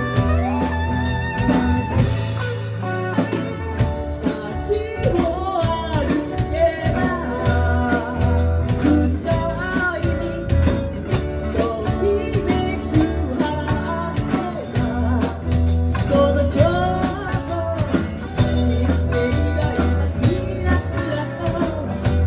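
A band playing a blues-rock song live, with electric guitar, bass and drum kit, and a voice singing over it.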